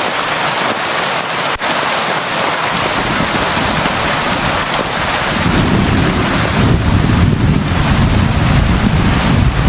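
Steady heavy rain, a dense even hiss. About halfway through, a low rumble of thunder rolls in underneath and keeps on.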